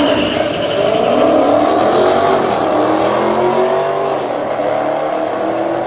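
A race car's engine running hard under throttle, its pitch climbing and shifting as it revs.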